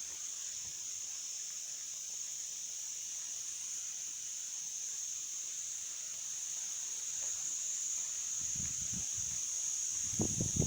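Steady high-pitched insect chorus, even and unbroken throughout. Wind buffets the microphone with low rumbles near the end.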